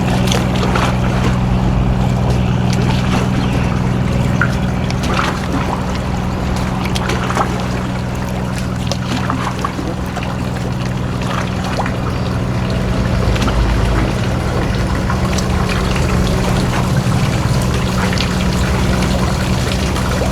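A boat's engine running steadily with a constant low hum, with water splashing and trickling throughout.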